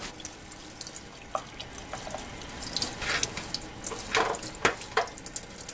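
Tap water running into a sink while a washable furnace filter is rinsed and wiped clean of dust, with irregular splashes and small knocks over the steady flow.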